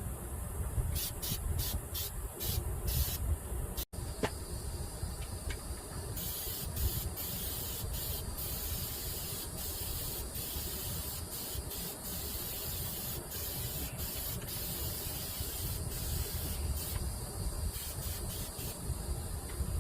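Aerosol can of Flex Seal rubber sealant spraying onto the pontoon boat's underside: several short squirts at first, then long sprays broken by short pauses, and a few short squirts again near the end. A low rumble runs underneath.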